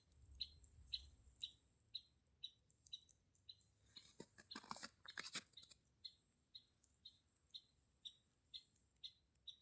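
A bird giving a short, high call over and over, about twice a second, with a brief rustle or crunch near the middle.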